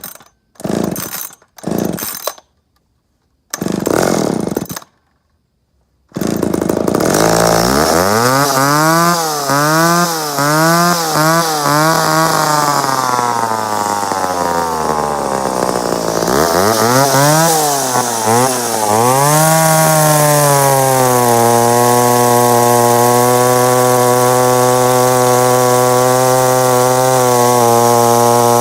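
1971 McCulloch 10-10 Automatic two-stroke chainsaw being pull-started: a few short bursts, a pause, then the engine catches about six seconds in. It is revved up and down several times, then runs at a steady high speed with a brief dip near the end.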